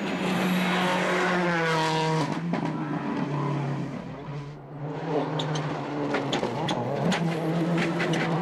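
Onboard sound of a World Rally Car's turbocharged two-litre four-cylinder engine at stage speed: revs falling under braking in the first couple of seconds, a brief lift about halfway through, then the engine pulling again with a series of sharp cracks near the end.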